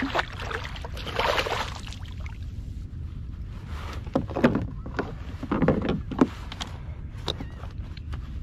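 Water sloshing and splashing beside a kayak, with scattered knocks and clicks on the hull, as a bluefish is held at the side and revived in the water. Splashes come about a second in and again twice in the middle.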